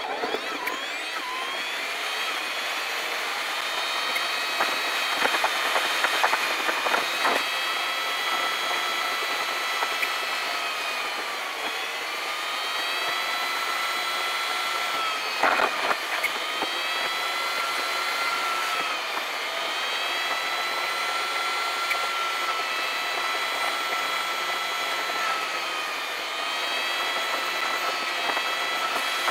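Car cabin engine and road noise sped up with fast-forwarded dashcam footage, so it comes out as a steady high whine with several pitches that drift slowly. A few brief clattering knocks come through, around five to seven seconds in and again in the middle.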